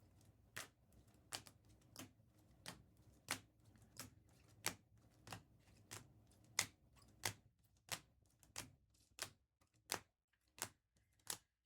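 Trading cards being flipped or set down one by one, a light sharp click with each card at a steady pace of about one and a half a second.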